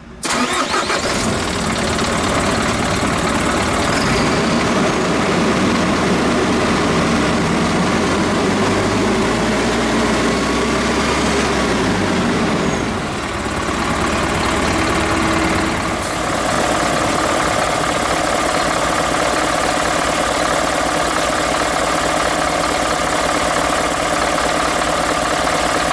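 Hino A05C 5.12-litre intercooled turbo diesel engine in a Hino Ranger truck running steadily at idle. The sound comes in suddenly at the start, and its note shifts slightly about sixteen seconds in.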